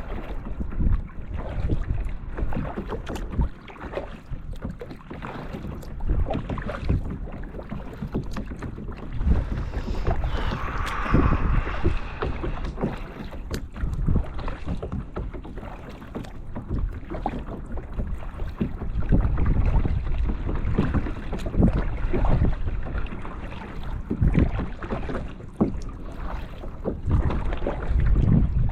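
Kayak paddle strokes dipping and splashing in calm water, one after another, with wind rumbling on the microphone.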